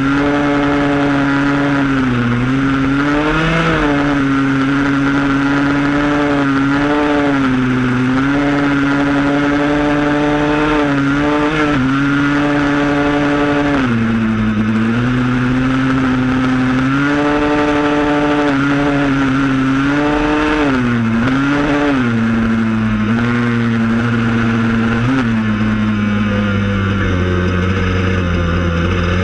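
Yamaha Blaster's two-stroke single-cylinder engine running under way, its pitch rising and falling with repeated throttle changes, and dropping lower near the end.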